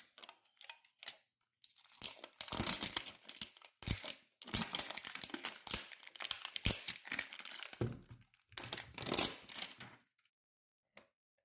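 Plastic toy packaging being crinkled and torn open by hand in irregular stretches, stopping about ten seconds in.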